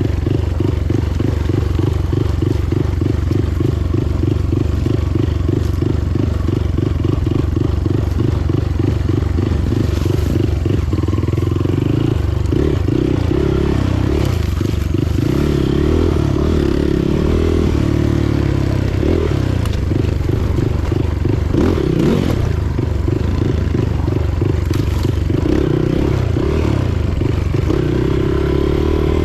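Motorcycle engine running while riding, with an even low pulsing beat at first; from about 11 seconds in the engine note rises and falls with the throttle.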